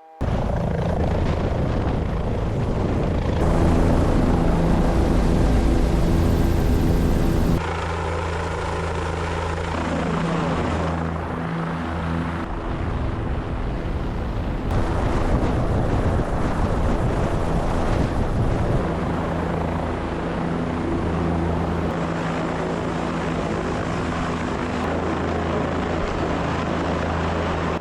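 Helicopter running steadily: rotor and turbine engine with a dense, constant noise and a steady low hum. The sound shifts abruptly several times, as the mix of rotor noise and tones changes.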